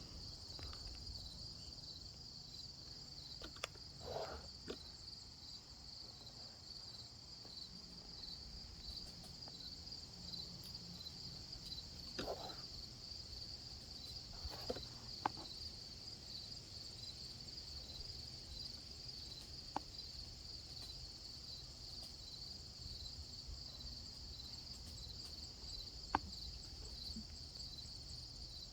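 Crickets chirring in a steady evening chorus, a continuous high-pitched pulsing drone. A few faint short sounds and clicks come through it now and then.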